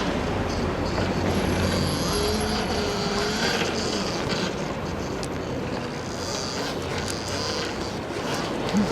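Riding noise from a Stomp Haywire electric dirt bike: a steady rush of wind over the helmet-mounted microphone with tyre and road noise, and a faint whine from the electric motor that glides in pitch near the middle.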